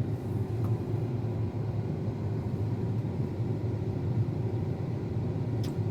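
Combine harvester engine running steadily, a low even rumble with no change in speed.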